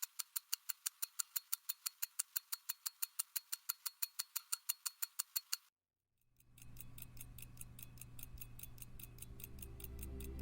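Mechanical pocket watch ticking with rapid, even ticks, several a second, which stop abruptly a little over halfway through. Soft music then fades in.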